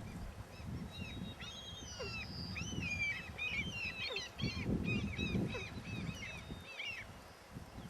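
A willow ptarmigan brood calling: many short, high, arched chirps from several birds overlapping in a rapid series, thinning out near the end.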